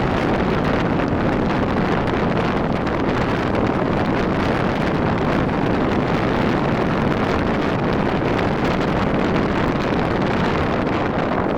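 Wind rushing steadily over the camera microphone on a moving Rusi RFI 175 motorcycle, with road and engine noise underneath.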